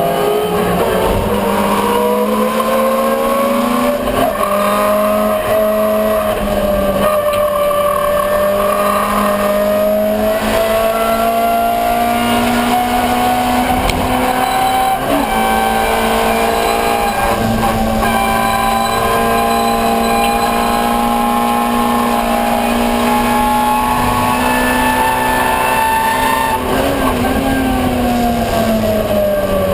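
Ford Escort 1300GT's four-cylinder race engine running hard at high revs. The pitch climbs slowly through a long pull for much of the time, holds, then falls near the end as the revs come down.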